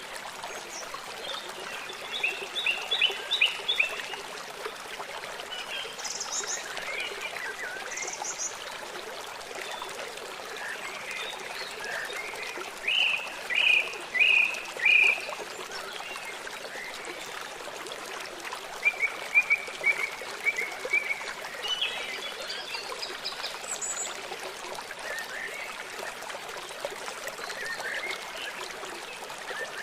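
A river or stream running steadily, with songbirds chirping over it: a quick run of calls about two seconds in, four loud chirps about halfway through, and further chirps in the second half.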